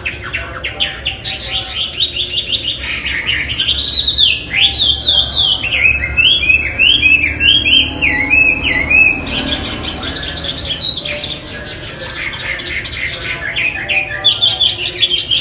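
Chinese hwamei singing a long, varied song: fast runs of repeated notes and swooping whistled phrases that rise and fall, easing off for a moment about eleven seconds in before starting up again.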